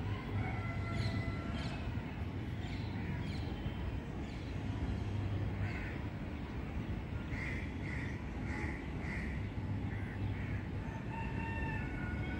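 Birds calling repeatedly, with a run of about six short calls half a second apart in the middle and a few thin whistles, over a steady low rumble of outdoor background noise.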